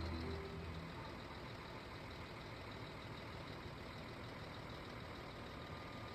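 Steady engine running noise, like a heavy vehicle idling, with the last notes of background music fading out in the first second.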